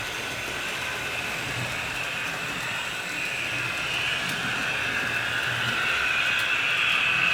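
HO scale model train running along the track: a steady electric-motor whir with wheel and track rumble, slowly growing louder as it comes closer.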